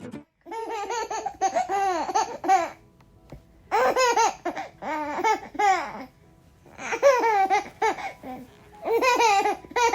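An 11-month-old baby laughing in four bouts, each a string of high squealing laughs that rise and fall in pitch, with short pauses between.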